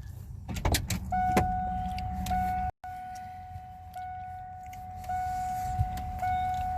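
A steady high electronic beep tone sounds from about a second in and holds on, cut off briefly once, over a low vehicle rumble with a few clicks near the start.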